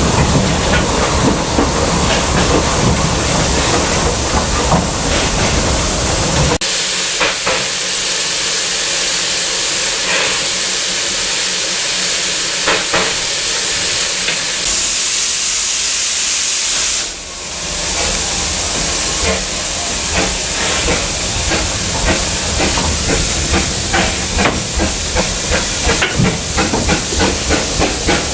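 Vale of Rheidol 2-6-2T steam locomotive No. 8 hissing loudly as steam escapes. A heavy low rumble cuts off suddenly about six seconds in. Regular exhaust beats build up over the last several seconds.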